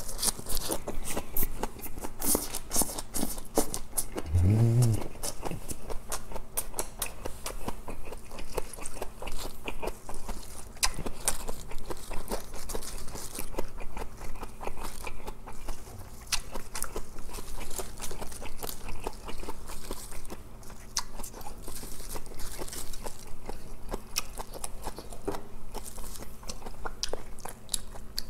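Close-miked chewing of leafy lettuce wraps (ssam) filled with spicy stir-fried pork and rice: crisp leaf crunches and wet mouth clicks that keep going throughout. A brief low hum about four seconds in.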